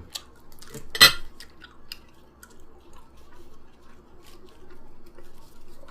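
Close-up eating sounds: chewing soft naan, with small clicks and taps of tableware. The loudest is one sharp clack about a second in.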